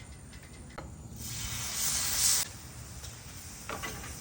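Marinated chicken thigh skewers sizzling as they cook in hot oil. The hiss grows louder about a second in, then eases back a second or so later.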